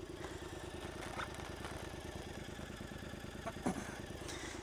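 Triumph Scrambler's parallel-twin engine idling steadily while the bike stands still, with a couple of light knocks about a second in and near the end.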